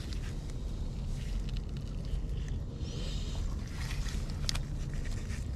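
A steady low rumble, with a few light clicks and taps of small metal chainsaw parts being handled.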